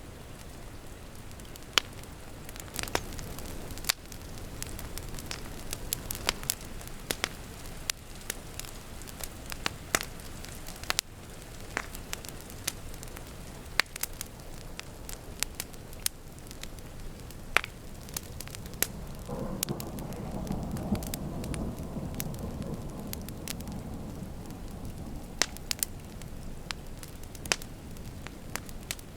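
Wood fire crackling with sharp, irregular pops over the steady hiss of rain. A low rumble of thunder swells and fades from about two-thirds of the way through.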